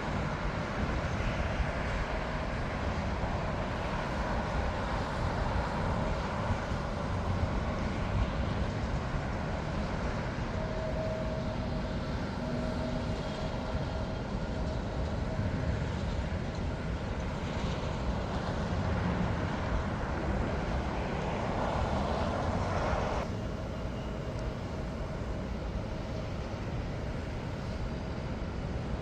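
Jet airliner engines running at an airport, a steady low rumble with a hiss over it. About three-quarters of the way through, the higher hiss cuts off suddenly and the sound drops a little.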